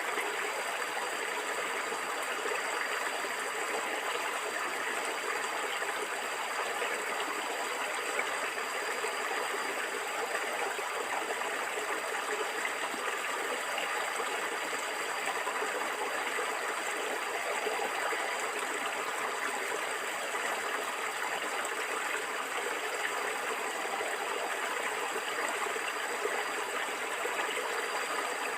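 Flowing water gurgling steadily, an even, unbroken rush.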